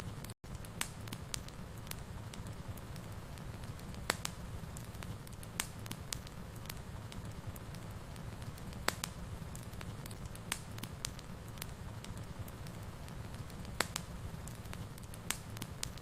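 Wood fire in a fireplace crackling, with sharp pops at irregular intervals over a steady low rumble. The sound cuts out for a split second about half a second in.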